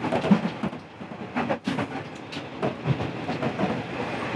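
Inside a KiHa 40 series diesel railcar on the move: a steady running rumble, broken by irregular clattering knocks of the wheels over the rails.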